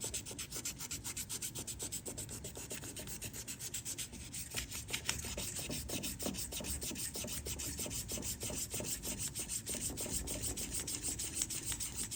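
Fine-grit wet/dry sandpaper rubbed quickly back and forth by hand over a JB Weld epoxy patch on a steel propeller shaft, a steady run of short scratchy strokes, feathering the filled seal groove smooth.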